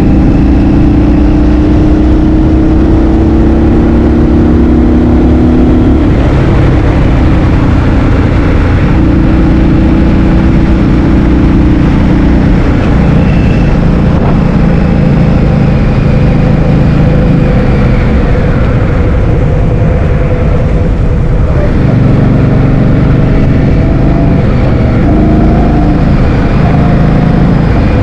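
Heavy wind buffeting on the microphone during a motor scooter ride, with the scooter's engine running underneath. The engine pitch steps up and down several times as the speed changes.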